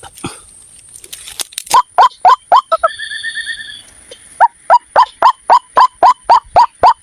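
White-breasted waterhen calls: a rapid series of loud, sharp repeated notes, about four a second, beginning about two seconds in. The series is interrupted near the middle by a brief fast high trill.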